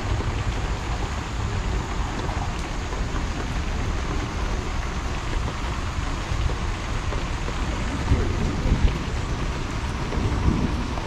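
Rain pouring steadily onto a wet street, an even hiss.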